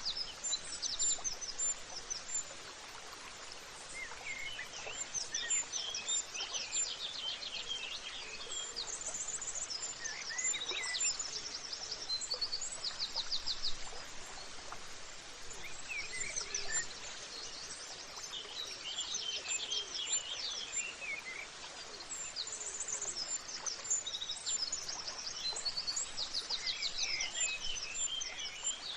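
Several songbirds chirping and singing, with frequent rapid trills and short whistled notes overlapping one another, over a steady background hiss.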